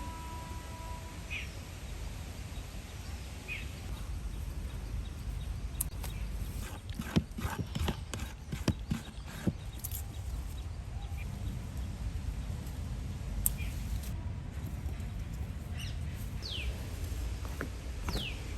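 Outdoor ambience: a steady low rumble with scattered knocks and clicks around the middle, and a few short falling chirps near the start and near the end.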